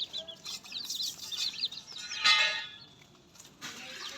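Many birds chirping in quick, short arched notes, with one louder call about two seconds in.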